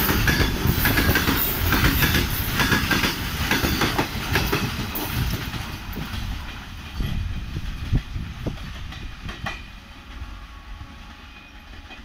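Freight train of covered goods wagons passing close by, the wheels clattering over rail joints. About halfway through, the brake van at the rear goes by and the clatter fades as the train draws away.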